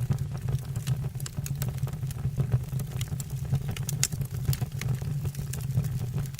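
Wood fire burning in a fireplace: a steady low rumble with irregular crackles and pops from the burning logs.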